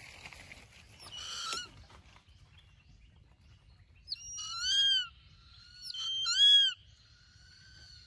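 A bird calling: a short call about a second in, then two loud, high calls, each rising then falling in pitch, about four and six seconds in.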